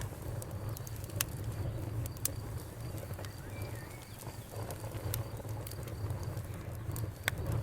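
Wood fire crackling in a fireplace: irregular sharp pops and snaps over a low, steady rumble of flame, with a few louder pops.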